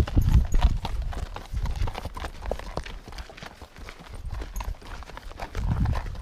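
Horses' hooves clip-clopping at a walk, many irregular strikes overlapping, with a low rumble swelling near the end.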